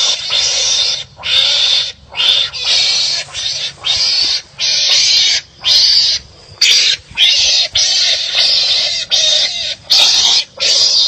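A wild animal's harsh, rasping calls, repeated over and over about once a second with short breaks between them.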